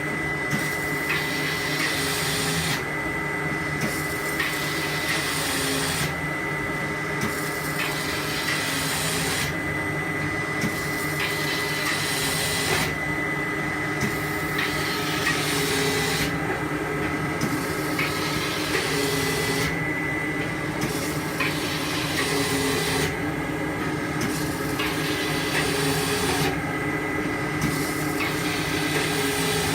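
Automatic OPP tape cutting machine running: a steady motor hum with a thin high tone, and a noisier feed-and-cut stretch that repeats in a regular cycle about every three and a half seconds, with a short lull between cycles.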